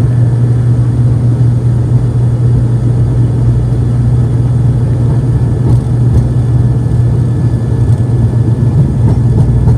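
ATR twin turboprop's engines and propellers running at high power during take-off, a loud, steady low drone that holds an even pitch.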